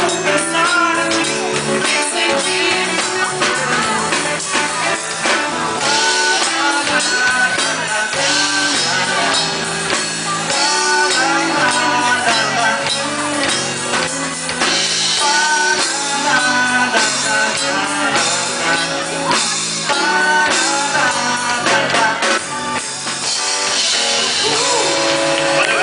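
Band playing a rock song with guitar, drums and tambourine, with singing in parts.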